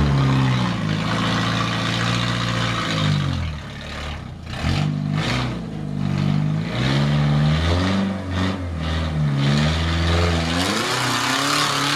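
Jeep engine revving up and down repeatedly under load as it climbs a steep rock ledge off-road, with its pitch dropping about three seconds in and then rising and falling several times.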